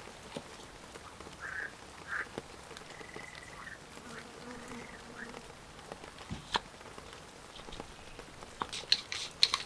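Frogs calling in short, faint croaks, with scattered sharp clicks and a quick run of clicks near the end.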